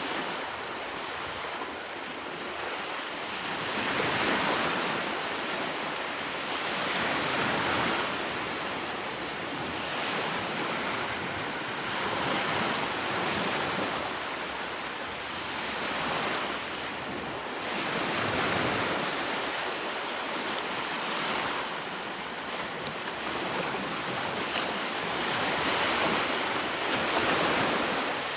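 Sea waves breaking and washing up the shore, swelling and fading about every three to four seconds.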